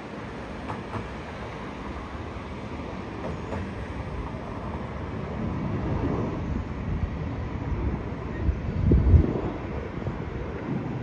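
Low rumble of jet aircraft engines, growing louder in the second half, with wind gusting on the microphone.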